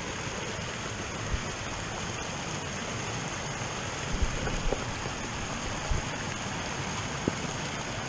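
Steady hiss of heavy rain together with a rain-swollen creek rushing by, with a few short soft knocks about one, four and six seconds in.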